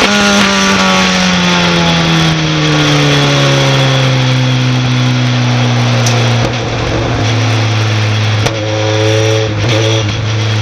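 A racing pickup truck's engine dropping from high revs to a steady low-speed drone over the first three or four seconds, then running on evenly at low speed, with a couple of sharp clicks later on.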